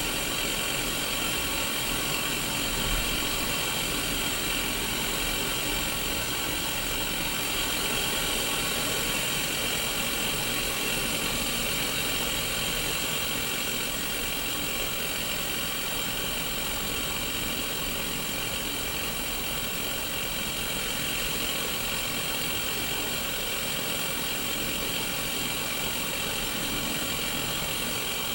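Steady static hiss from the small speaker of a Sony Mega Watchman, a pocket black-and-white CRT TV showing white noise on an untuned channel.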